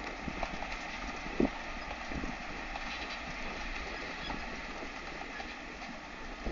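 Tractor engine and onion-harvesting machinery running steadily, with scattered knocks and one louder thump about a second and a half in.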